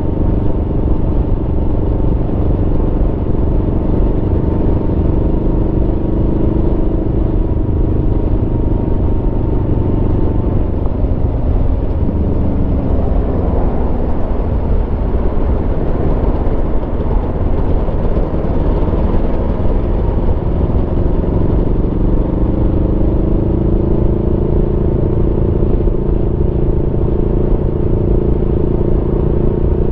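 Aprilia Tuono V4 motorcycle's V4 engine running under way. The engine note drops about a third of the way in and then climbs again and holds in the last third.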